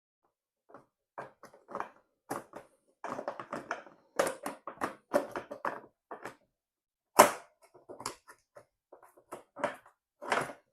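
Irregular clicks, rattles and knocks of plastic motorcycle parts being worked loose by hand, with one sharp knock about seven seconds in.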